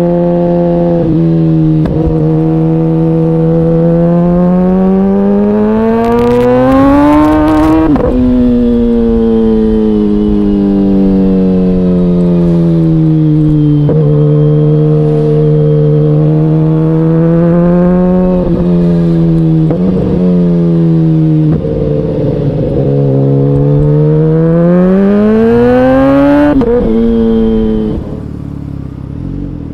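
KTM Duke 125's single-cylinder four-stroke engine pulling under load, its pitch climbing steadily as it revs and dropping sharply at each gear change, several times over. Near the end the engine note falls much quieter.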